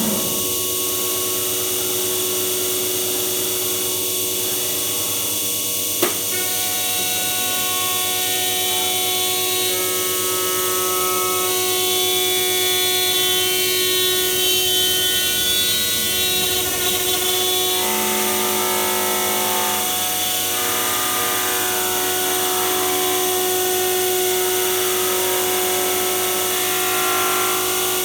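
MAKA five-axis CNC machining centre running, its spindle giving a steady whine over a high hiss, with further tones coming and going as the machine works. A single sharp click about six seconds in.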